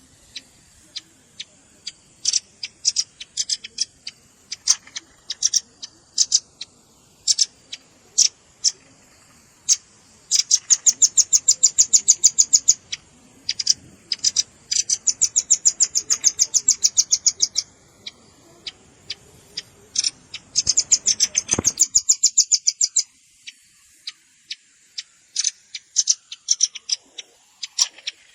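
Velvet-fronted nuthatch calls played as a trapping lure: sharp high chip notes, some single and spaced apart, others run together into fast rattling trills lasting two to three seconds.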